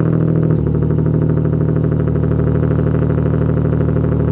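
Single-turbo Nissan 370Z Nismo's 3.7-litre V6, breathing through a Tomei exhaust, idling steadily moments after a cold start; the idle settles slightly about half a second in.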